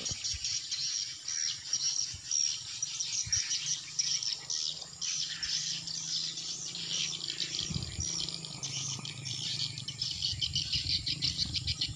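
A dense, unbroken chorus of rapid high-pitched chirps and twitters, with a steady low hum underneath.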